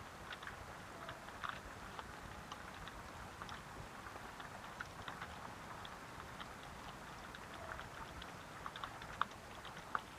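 Steady rain falling, with scattered individual drops ticking and dripping on a surface.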